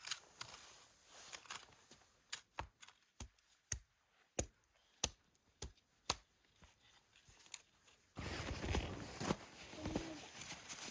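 A dozen or so sharp, irregular clicks and snaps, then a sudden louder stretch of rough rustling and crunching noise from about eight seconds in.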